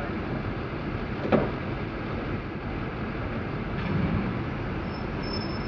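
Steady vehicle engine rumble with a brief knock about a second in.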